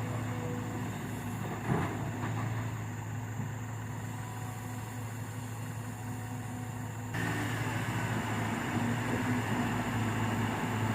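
Diesel truck engine running with a steady low drone. About seven seconds in it gets louder and a hiss comes in over it.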